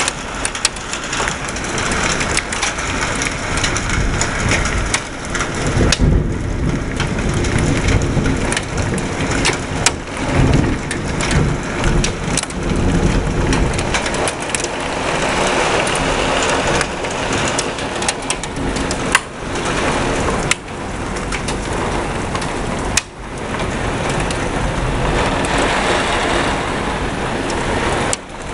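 Heavy rain pouring down in a severe thunderstorm: a loud, steady downpour dotted with many sharp taps, and the low end swelling and easing at times.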